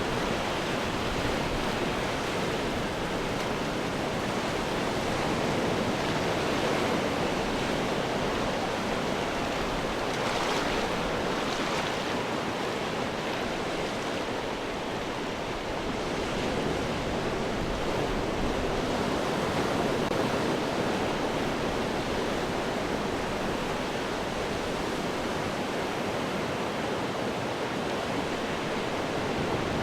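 Ocean surf breaking on rocks: a steady, dense wash of churning water, with a couple of brief hissing swells of spray about a third of the way in.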